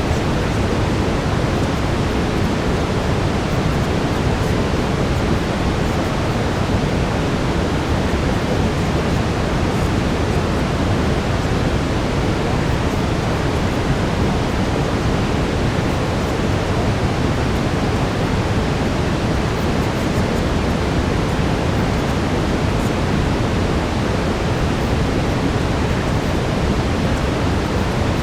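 Steady brown noise: an even, low-weighted hiss like a distant rushing waterfall, unchanging throughout.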